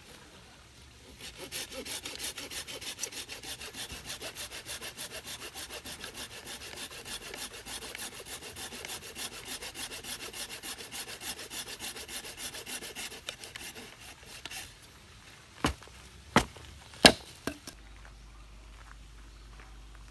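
Hand saw cutting through firewood in quick, even back-and-forth strokes for about thirteen seconds, then three sharp knocks of wood, the last the loudest.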